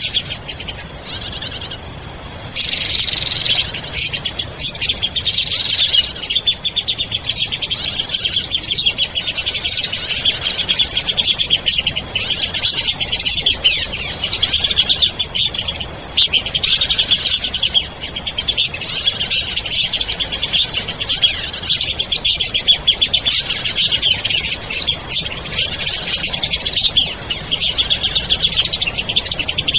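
Small songbird singing in fast, dense trills and sharp chirps, almost without pause, as played on a bird lure recording for calling in birds.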